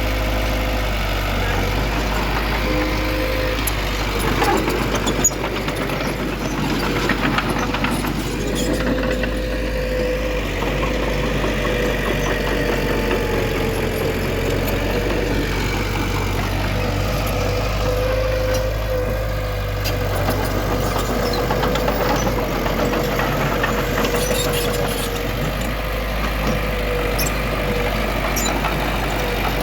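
Heavy diesel earthmoving machinery running steadily, with a held whine that wavers slightly in pitch. A few short clanks come around a third of the way in and again near the end.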